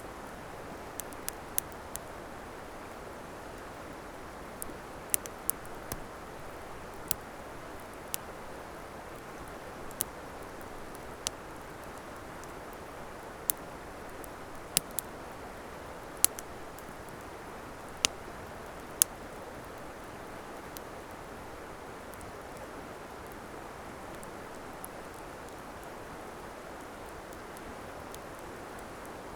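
Wood campfire crackling: sharp, irregular pops and snaps, a few seconds apart and sometimes in quick clusters, over a steady rushing hiss.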